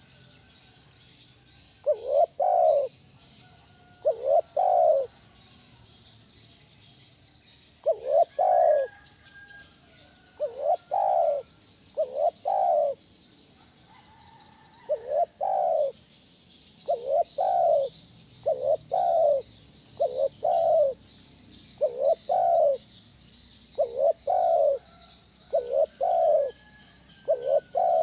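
Spotted dove cooing: a loud, deep phrase of two or three coos repeated about every two seconds, starting about two seconds in. Faint chirps of small birds sound in the background.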